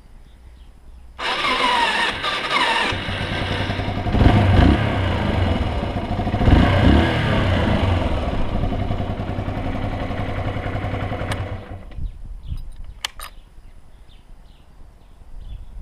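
Yamaha XT125X motorcycle's single-cylinder four-stroke engine starting up about a second in, revved twice through its exhaust, then shut off about twelve seconds in.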